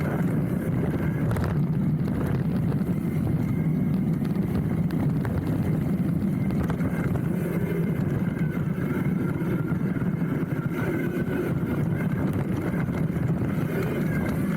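Steady rolling noise of a hardtail mountain bike riding down a dirt trail, heard from a handlebar-mounted camera: a constant low rumble of tyres and frame with wind on the microphone, with no breaks.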